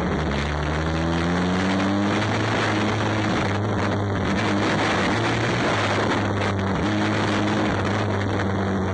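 Banger race car's engine heard from inside the cockpit, under load as the car drives on, with steady road and tyre noise. The revs climb over the first couple of seconds, then ease back and hold level a few times.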